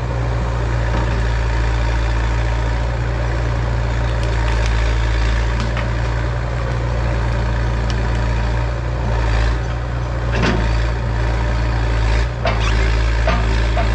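Hitachi EX100 excavator's diesel engine running steadily, with a few short knocks about ten and twelve seconds in.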